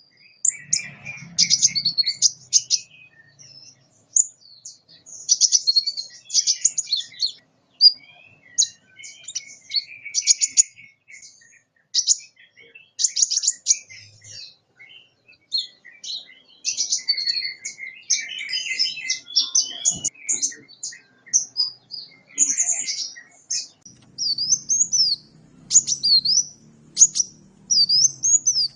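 Sunbird (the 'kolibri' of Indonesian songbird keeping) singing a fast, high-pitched chattering song of rapid chirps and trills. Near the end it switches to a string of repeated wavering, sweeping whistles.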